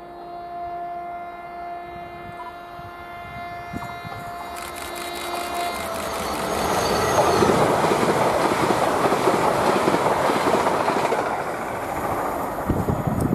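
Two coupled ScotRail Class 385 electric multiple units approaching and passing at speed. A horn sounds one long steady note for the first five or so seconds. Then the train's rush and wheel clatter build, loudest in the middle, and wind buffets the microphone near the end.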